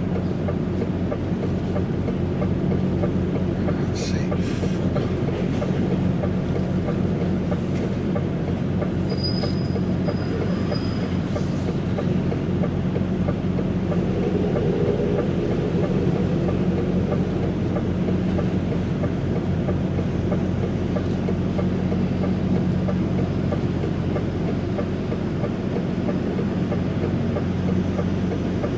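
Steady drone of a DAF XF105.460 truck's diesel engine and road noise while driving, with a couple of brief clicks about four seconds in and a short high tone near ten seconds.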